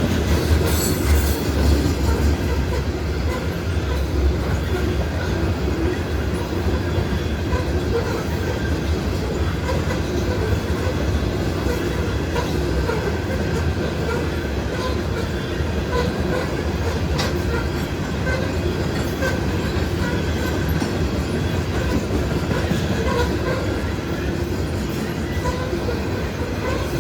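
Freight train of grain hopper cars rolling steadily past, a continuous low rumble with wheels clicking over rail joints and faint wheel squeal, heard from inside a car.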